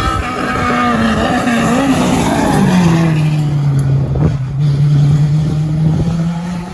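Rally car engine running hard as the car comes past. Its pitch drops about two and a half seconds in, holds steady and loud, then fades near the end.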